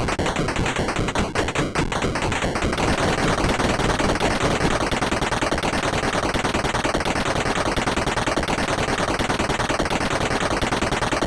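Rapid, dense tapping of many small impacts. It thickens into a continuous rattle after about two and a half seconds and cuts off suddenly at the end.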